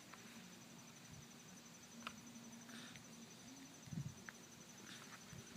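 Near silence outdoors: a faint, steady, rapidly pulsing insect trill, with a few faint taps.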